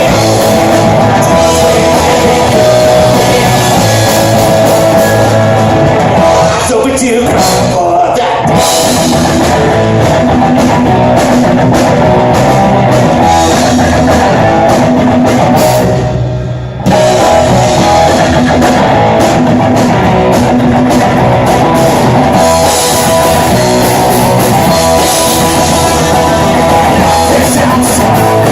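Live rock band playing loudly on guitars and drum kit. There is a brief break about sixteen seconds in before the full band comes back in.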